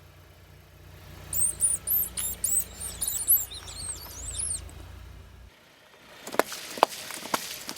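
Objects being crushed under a car, with the engine running low underneath. A run of high-pitched squeaks for a few seconds is followed, after the engine noise drops away, by several sharp cracks as something crunches.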